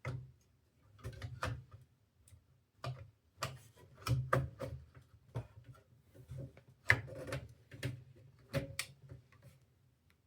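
Irregular clicks, taps and knocks of computer parts and case panels being handled and fitted by hand, about a dozen in ten seconds, the loudest about seven seconds in.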